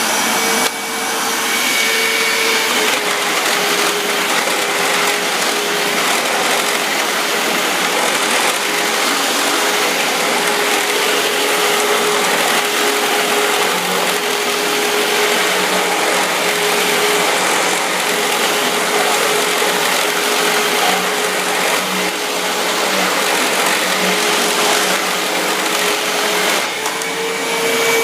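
Hoover WindTunnel self-propelled bagless upright vacuum cleaner running: a steady motor whine over rushing air. Its pitch drops slightly about three seconds in and rises back near the end.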